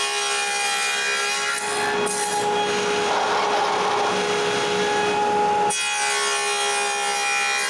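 Table saw running with a steady whine while its blade cuts box-joint slots in a wooden board; the cutting noise swells in the middle and eases off about two thirds of the way through.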